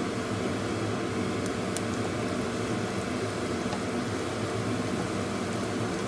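Minced shallots sizzling steadily in hot oil in a nonstick wok, stirred with a wooden spatula, over a steady low hum.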